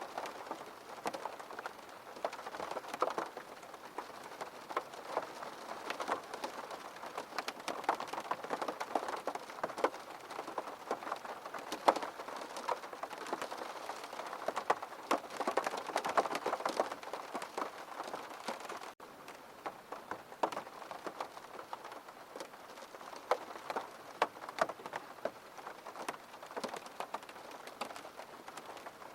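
Steady rain, an even hiss with many separate drops ticking through it. There is a momentary break about two-thirds of the way through, after which it is a little quieter.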